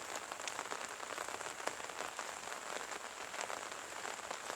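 Steady light rain falling, an even hiss with many individual drops ticking sharply on surfaces close by.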